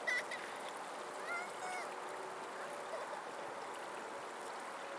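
Birds calling over a steady rushing background noise: a short sharp call right at the start, then a longer rising-then-falling call about a second and a half in.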